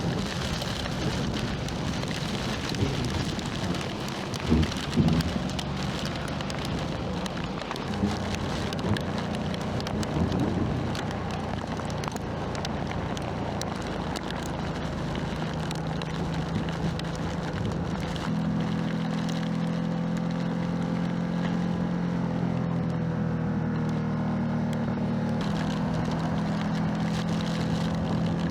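Ducati motorcycle running at speed through heavy rain and hail, with wind rush and many small ticks of rain and hailstones striking. There are a few louder knocks about four to five seconds in, and the engine note settles into a steadier, stronger tone in the last third.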